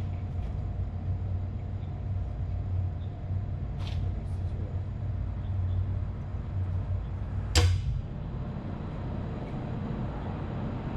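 Steady low machinery hum, with a sharp knock about seven and a half seconds in and fainter taps around four seconds in.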